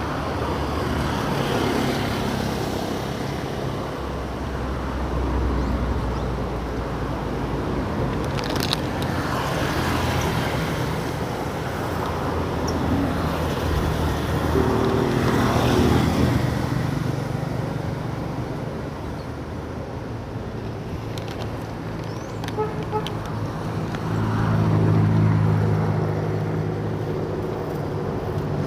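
An engine running steadily under a rushing, wind-like noise, its low hum growing louder near the end.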